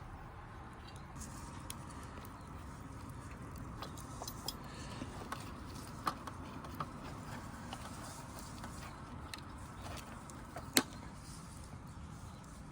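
Scattered small clicks and light knocks over a steady low outdoor rumble, with one sharper, louder click near the end.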